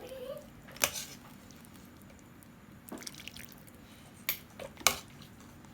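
Utensils clinking against a soup bowl four times, the last clink the loudest, with light dripping of broth in between.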